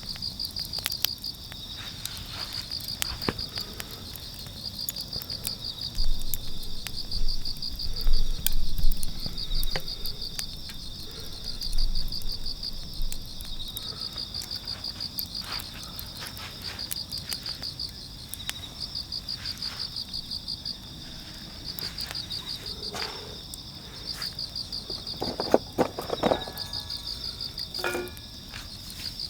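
Crickets chirping: repeated high trains of rapid pulses over a second insect's steady trill. Scattered light clicks and a few dull knocks sound in between.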